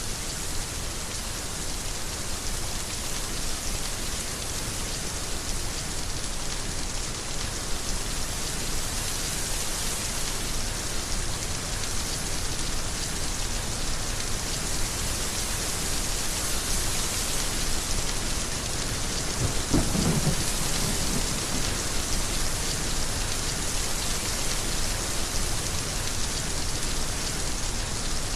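Heavy rain falling steadily, with a sudden low clap of thunder about two-thirds of the way through that rumbles briefly.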